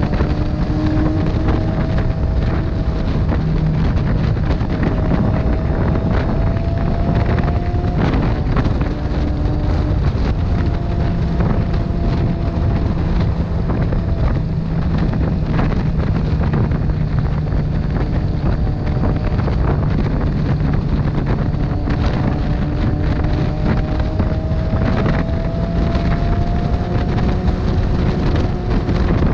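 Motorcycle being ridden at speed: heavy wind noise on the microphone over the engine, whose note rises slowly in pitch a few times as it pulls.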